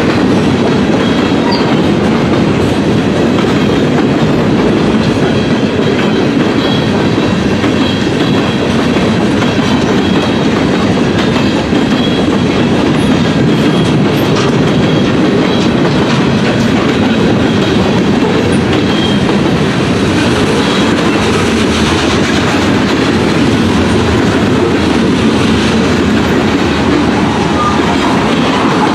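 Freight train rolling past, its steel wheels running on the rails in a loud, steady rumble.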